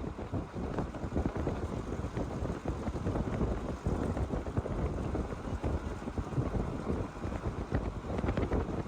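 Wind buffeting the microphone, a gusty low rumble that rises and falls quickly, with faint light ticks over it.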